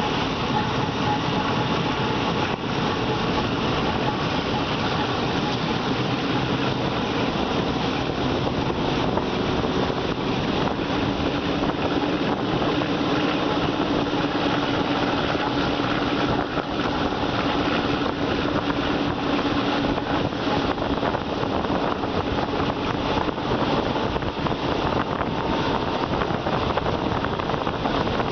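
Passenger train running along the track, heard from an open carriage window: a steady rush of wheel and air noise, with a low hum joining in through the middle.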